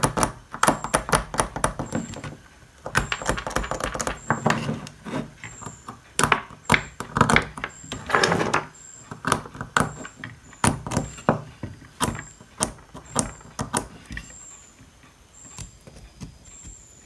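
Repeated scraping and sharp clicking of a tool working rust off corroded metal parts of a power-supply board, going quieter and sparser near the end.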